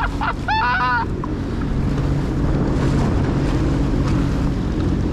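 Jet ski engine running at a steady cruising speed, not at full throttle, with wind rushing over the microphone.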